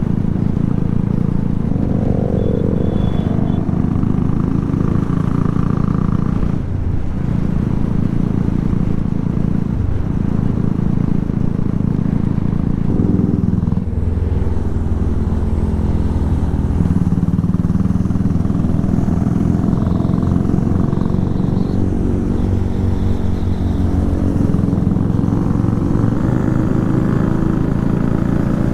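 Single-cylinder sport motorcycle engine running under way through a loud modified exhaust. Its pitch rises and falls with the throttle, with a brief dip about halfway through and a climbing rev near the end.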